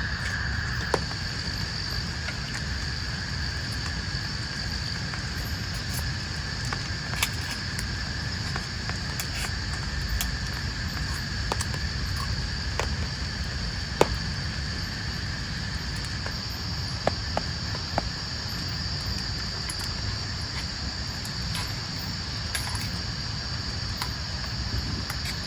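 Night insects, crickets or similar, calling steadily at two constant high pitches over a low rumbling wash of rain. Scattered sharp taps of falling drops come through, the loudest about halfway through.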